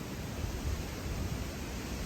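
Hurricane wind and rain: a steady rushing hiss with an uneven low rumble.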